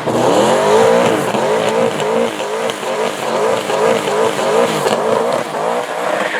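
Twin-turbo V8 engine of a Toyota Corolla race car running hard at high revs, its pitch repeatedly surging up and falling back about twice a second.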